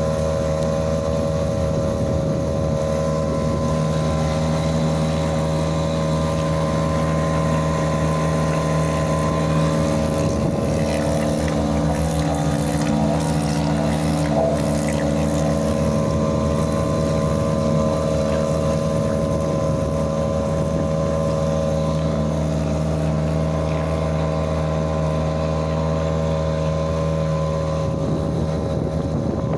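Mercury 2.5 hp outboard motor running steadily at an even speed, with light wind noise on the microphone.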